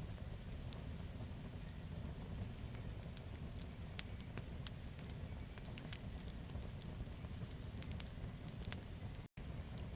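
Campfire burning, with irregular sharp crackles and pops of the wood over a steady low rumble of the flames. The audio drops out to silence for an instant near the end.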